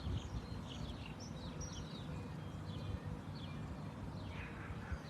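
Small birds chirping in many short, quick calls, over a low, uneven rumble.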